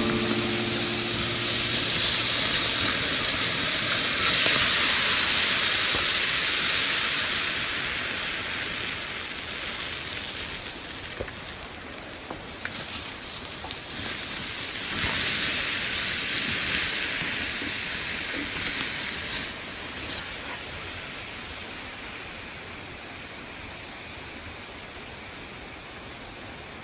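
Water poured onto hot campfire embers in a small fire stand, hissing and sizzling as it turns to steam. It comes in two long bouts, one starting about two seconds in and another about fifteen seconds in, with a few sharp cracks between them, then fades down.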